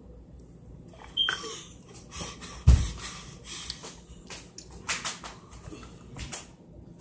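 Sounds of kids after gulping a nasty mustard-and-ranch mix: a short sliding vocal noise about a second in, a single loud thump a little later, then scattered breathy gasps and small knocks.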